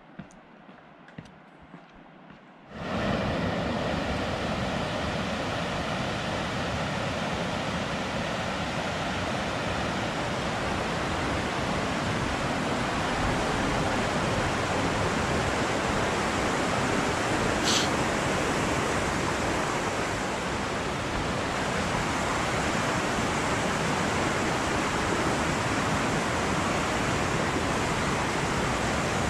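Rushing water of a mountain creek or waterfall: a steady, loud, even rush that comes in suddenly about three seconds in, after a quiet stretch with a few light clicks. A single short high note cuts through it about two-thirds of the way in.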